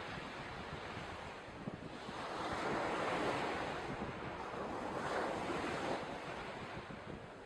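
Outdoor wind and water noise, a steady rushing that swells in the middle and eases off near the end.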